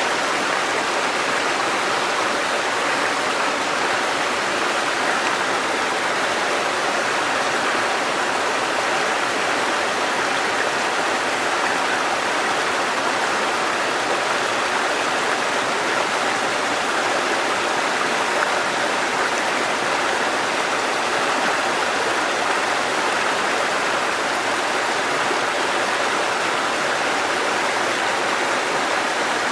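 Flowing water rushing steadily, an even, unbroken sound with no changes.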